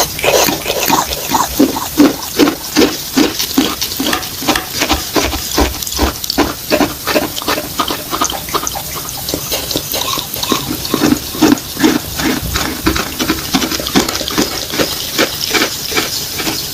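Close-up chewing of wet chalk with clay paste: steady, wet, squelching chews, about two a second.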